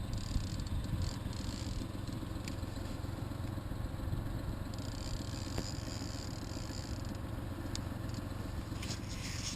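A boat motor running steadily, a low rumble with a few light clicks over it.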